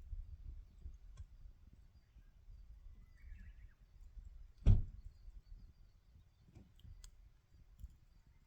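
Wood fire crackling, with scattered faint ticks over a low rumble and one loud sharp pop a little under five seconds in.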